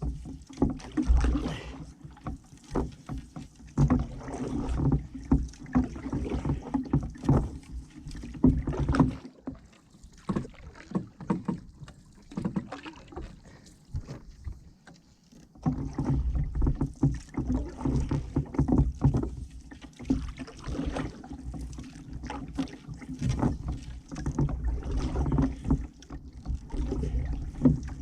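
Ash canoe paddle stroking through the water of a solo canoe, with irregular splashes and light knocks over a low rumble. There is a quieter lull through the middle, then steady paddling resumes.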